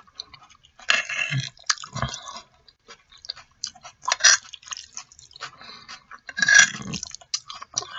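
Close-miked wet chewing of black bean sauce noodles (jajangmyeon), with irregular smacking mouth sounds and small clicks. The louder bursts come about a second in, around four seconds and near seven seconds.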